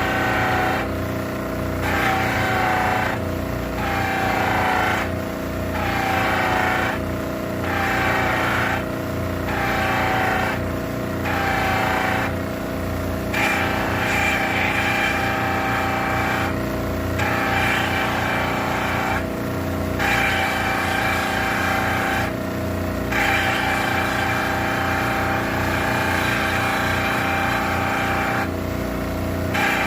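Electric polishing machine running with a steady hum, while a higher whirring and rubbing sound comes and goes as the buffing wheel is pressed onto the metal wheel hub: about once a second at first, then in longer stretches of one to three seconds.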